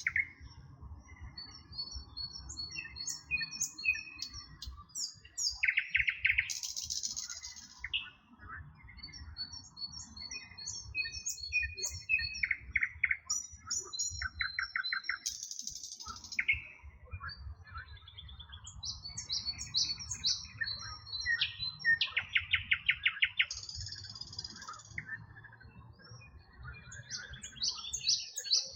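Several songbirds singing at once: overlapping chirps and whistled phrases, with rapid trills and buzzy notes every few seconds, over a faint low rumble.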